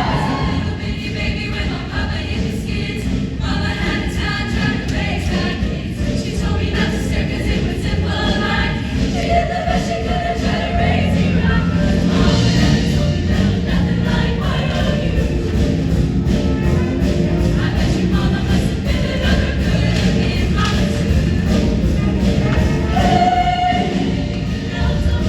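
Show choir singing in full ensemble over loud accompaniment with a steady driving beat.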